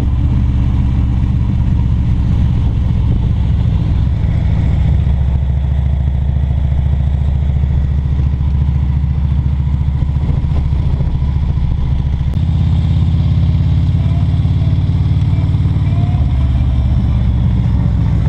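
Motorcycle engine running steadily at cruising speed, its note shifting slightly about four seconds in and again about twelve seconds in.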